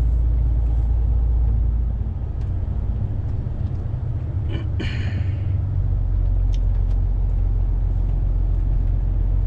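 Diesel engine of a truck running, heard from inside the cab as a steady low rumble that eases about two seconds in and comes back strongly a little past the middle. A short hiss sounds about halfway through.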